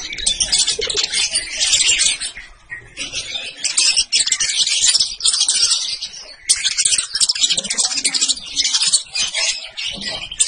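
Sunbirds (kolibri ninja and kolibri wulung) singing a fast, high-pitched twittering song in long continuous bouts, with a couple of short pauses.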